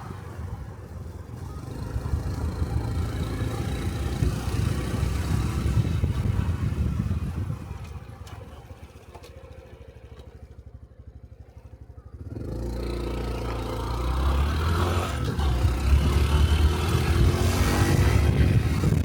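Single-cylinder 125cc Honda Cub motorcycle engine under way, dropping to a quiet idle about eight seconds in. After about four seconds of idling it picks up again and revs rising as the bike pulls away and accelerates.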